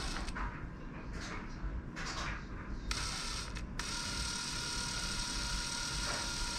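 Electric drill boring a hole into a wooden pen blank: a few short bursts of drilling, then the drill runs steadily from about three seconds in.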